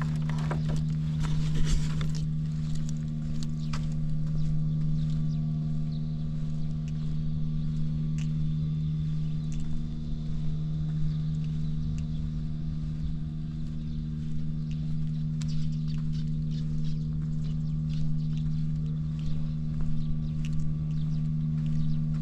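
Early Honda Motra AD05 moped's small single-cylinder engine idling steadily with an even hum. Some brief clatter in the first couple of seconds settles into the idle. It runs quietly, with no abnormal noises.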